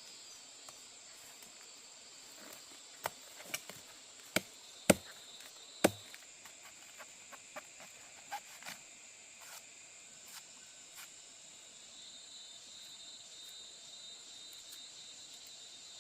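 A handful of sharp chopping strikes of a cutting tool, from about three seconds in to about six seconds in, the two loudest near the middle, then a few lighter clicks and knocks. Insects keep up a steady high buzz underneath.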